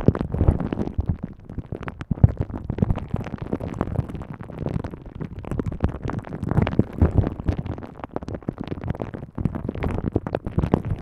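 Green Jello squishing and squelching against a microphone pushed down into it, heard from inside the gelatin as a dense run of irregular wet pops and low rumbles.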